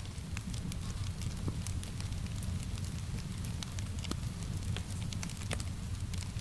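Wood fire crackling, with many sharp pops and snaps scattered irregularly over a steady low rumble, mixed with an even hiss of rain.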